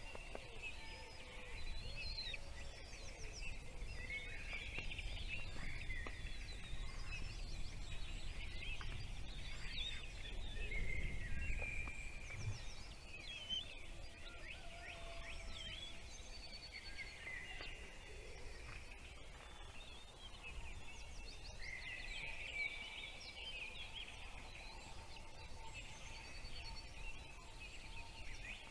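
Small birds chirping: a steady stream of short, high calls over a low rumble, with the rumble swelling about a third of the way through.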